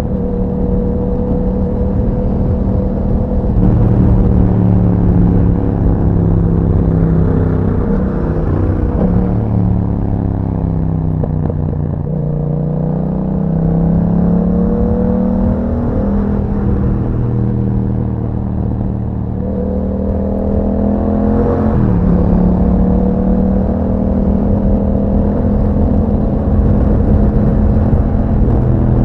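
A 2021 Yamaha MT-07's parallel-twin engine running through an Akrapovic exhaust while the bike is ridden. The engine note slowly falls to a low point about twelve seconds in, then climbs back. A little after twenty-one seconds it jumps up sharply and then holds steady.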